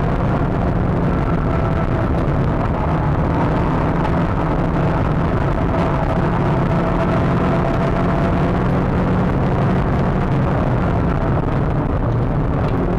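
Renault Clio Trophy 182's 2.0-litre four-cylinder engine running hard at track speed, heard from on board with road and wind noise. The engine pitch holds fairly steady for most of the stretch and shifts near the end.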